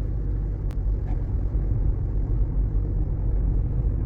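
Steady low road and tyre rumble inside the cabin of a moving Waymo robotaxi, with two faint clicks about a second in.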